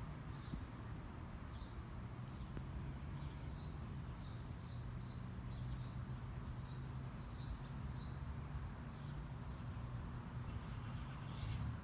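A small bird chirping: about fourteen short, high chirps at uneven intervals, over a low steady rumble.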